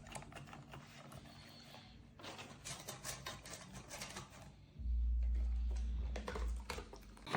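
Rapid, irregular clicking and rattling, then a loud low rumble lasting about a second and a half, about five seconds in.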